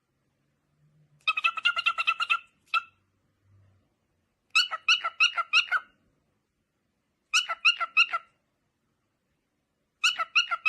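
An animal making bursts of rapid, high chirps, several notes a second, four times with short silences between.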